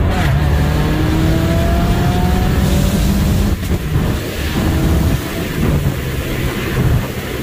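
Subaru WRX's turbocharged flat-four engine under hard acceleration, heard from the cabin. Its revs climb through each gear, dropping at an upshift right at the start and again about three and a half seconds in, then climbing again.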